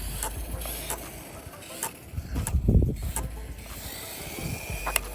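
Losi Mini LMT RC monster truck's small electric motor giving a thin, slightly rising whine near the end, among scattered clicks and knocks and a low wind rumble on the microphone.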